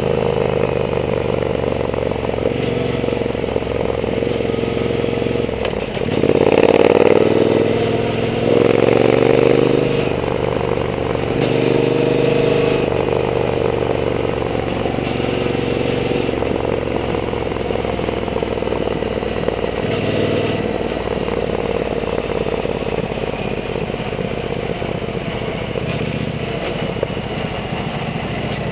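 Triumph Bonneville T120's 1200 cc parallel-twin engine running through an aftermarket Zard exhaust while the bike is ridden. It is opened up twice, about six and nine seconds in, rising in pitch and getting louder each time, then settles back to a steady cruise.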